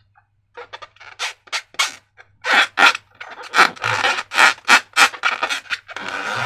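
Slime being squished and worked by hand: a quick irregular run of short, wet rubbing squelches, about three or four a second, louder from about halfway through.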